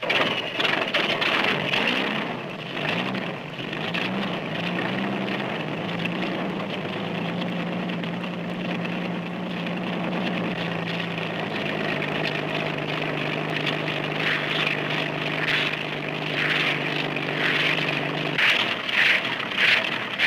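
Engine of an early direct-lift flying machine starting up and running, its pitch wavering and rising at first, then holding steady, dropping a step about halfway and cutting off a couple of seconds before the end. In the later part a rhythmic beat, under two strokes a second, from the reciprocating disc propeller.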